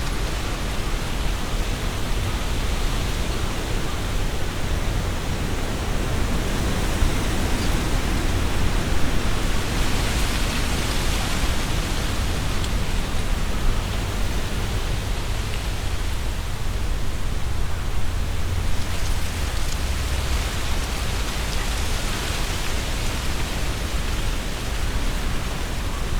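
Strong wind gusting through trees, the leaves rustling in a continuous hiss that swells with each gust, over a low rumble.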